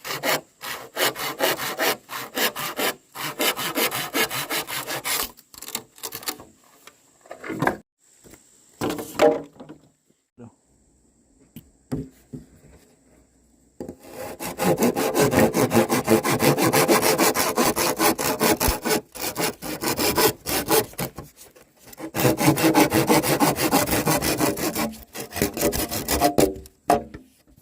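A hand saw cutting wood in runs of quick, even strokes, going quiet for a few seconds near the middle before sawing resumes.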